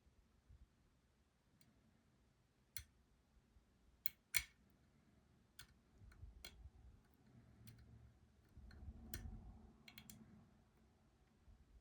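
Faint, scattered metallic clicks of a lock pick and tension wrench working the pins of a Robur 2391 lock while trying to set its sidebar, the sharpest click a little over four seconds in.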